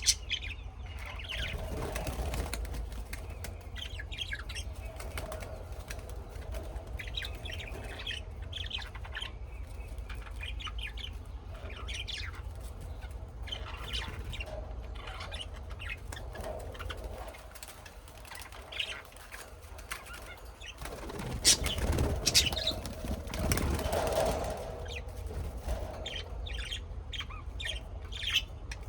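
Birds chirping in short, scattered calls, with a louder flurry of noise about three-quarters of the way through.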